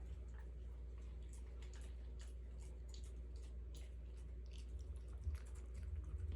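Faint, irregular small clicks and ticks over a steady low hum, with a few soft thumps near the end.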